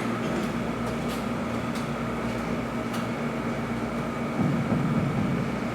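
Steady background hum and hiss of room noise, with a few faint ticks and a slight low swell about four and a half seconds in.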